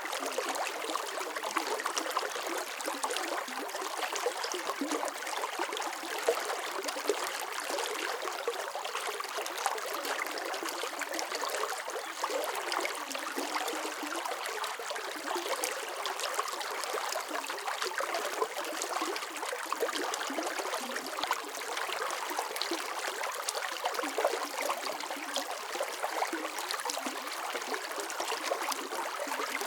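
Running water: a small stream flowing and trickling steadily, with a constant bubbling splash.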